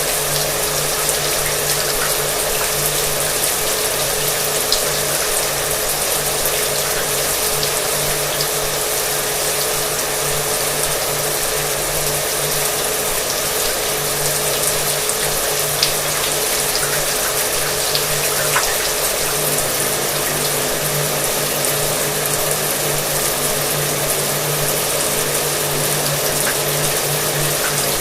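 Shower water spraying steadily together with a hair dryer running, its motor giving a steady hum with a higher tone above it.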